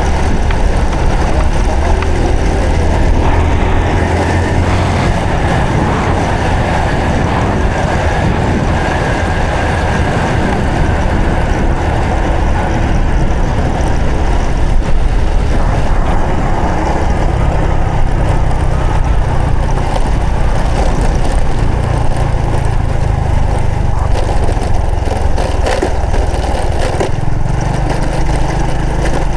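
Honda Supra X 125 FI's single-cylinder four-stroke engine running under way, its note shifting up with changes in speed about halfway through and again near the end.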